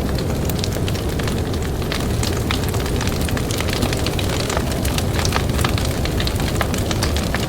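Campfire crackling with frequent sharp snaps and pops, over a steady low rumble of blizzard wind.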